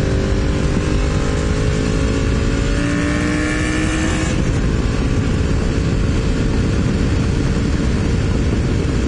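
Honda VFR750's V4 engine pulling as the motorcycle accelerates, its pitch climbing slowly for about four seconds, then a gear change and steady running. Heavy wind rumble on the helmet-mounted microphone throughout.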